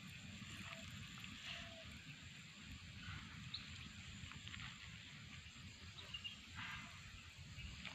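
Faint outdoor ambience: a low rumbling background with a few faint scattered chirps.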